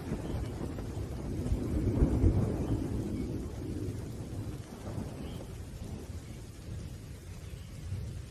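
Rolling thunder rumbling deep and low over steady rain, swelling again about two seconds in, then slowly dying away.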